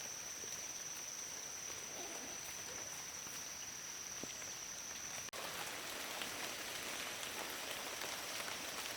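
Steady rain falling, an even hiss of drops, with a thin steady high tone above it. The sound drops out briefly about five seconds in, after which the rain is slightly louder and the tone is gone.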